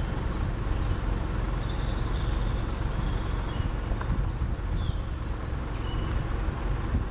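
Songbirds calling in the woodland: short high whistled notes repeat about once a second, with a burst of higher notes from other birds in the second half. Under them runs a steady low rumble.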